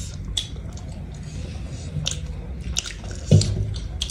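Close-up chewing of roast chicken: wet mouth clicks and lip smacks every second or so, with a brief low thump about three seconds in.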